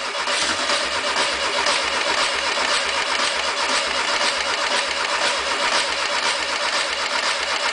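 Starter motor cranking a Volkswagen 1600 air-cooled flat-four engine, with one cylinder firing in an even rhythmic chug but the engine not catching. It will not run because the injector resistor is unplugged, so the fuel injectors never fire.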